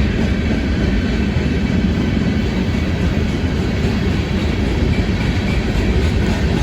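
Freight train cars rolling past: a steady, heavy rumble of steel wheels on the rails.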